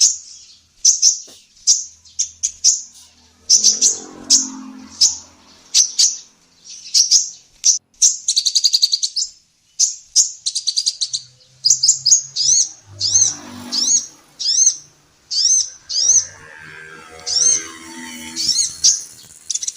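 Female kolibri ninja sunbird calling in a steady string of sharp, high chirps, about two a second, with a quick rattling trill about eight seconds in.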